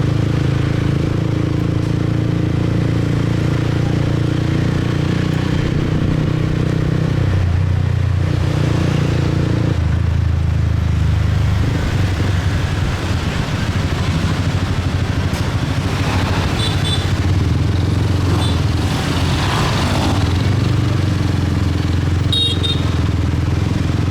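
Motorcycle engine running steadily while riding through city traffic, its note changing twice in the first half as speed or gear changes. A few short high beeps sound in the second half.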